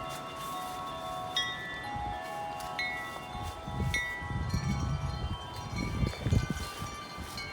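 Several metal tube wind chimes struck by gusty wind, clanging irregularly every second or so with long overlapping ringing tones at several pitches. Low rumbling gusts of wind swell underneath, strongest in the second half.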